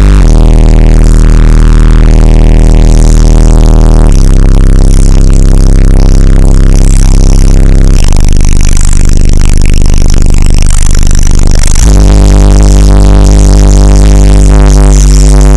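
Bass-heavy electronic music played through a car stereo's 18-inch Fi BL subwoofer, powered by a Soundstream XXX 4000D amplifier, at very high volume. Long held bass notes change pitch about every four seconds.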